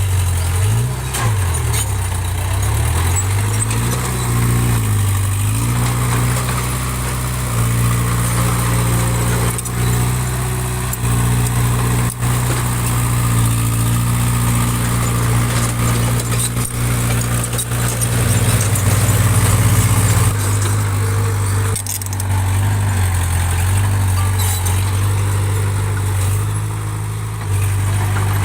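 Small bulldozer's diesel engine working under load. Its note dips and rises several times in the first few seconds, then holds steady, with scattered light knocks.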